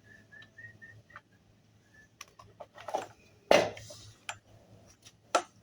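Clicks and knocks of things being handled, with one loud clank about three and a half seconds in. A few faint, short high chirps come in the first two seconds.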